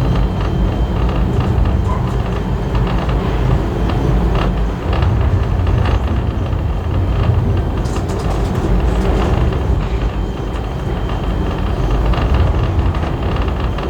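Passenger carriage running along the track behind a steam locomotive: a steady low rumble of wheels and bogies on the rails, with a brief run of sharp clicks about eight seconds in.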